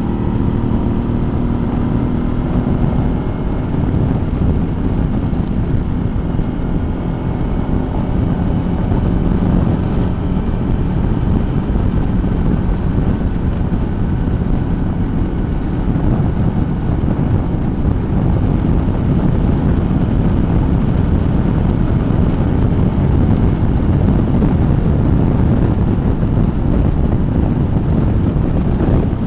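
Suzuki V-Strom motorcycle running at road speed, its engine drone under steady wind rush on the microphone. The engine's tone stands out most in the first few seconds; after that the wind noise covers it.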